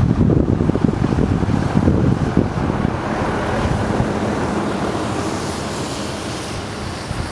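Wind buffeting the microphone in uneven low gusts over a steady rushing hiss, the gusts easing off in the second half.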